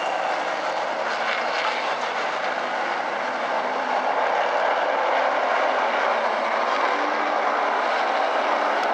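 A field of super late model race cars running together at pace speed on the pace laps before the green flag: their V8 engines blend into a steady engine noise with no sudden changes.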